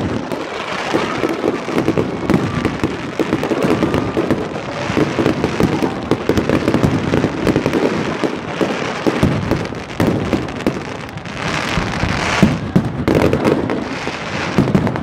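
Fireworks display going off overhead: a dense, unbroken crackle of many bursting shells and crackling white stars, loud throughout.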